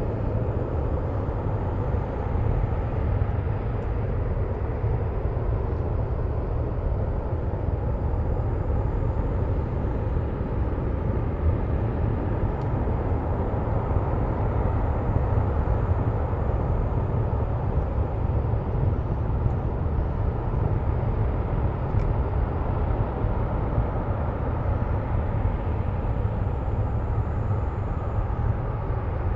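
LE-9 liquid-hydrogen/liquid-oxygen rocket engine firing on the test stand, heard from a distance as a steady deep roar with no breaks or changes.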